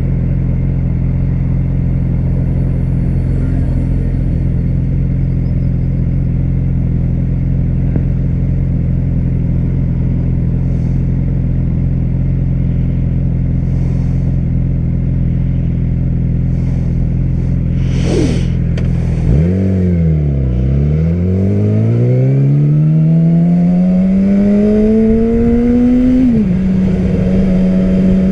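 Yamaha R6's inline-four engine idling steadily, with a brief click about 18 seconds in. It then pulls away, revs rising through the gear, and shifts up near the end, the pitch dropping before it settles into steady running.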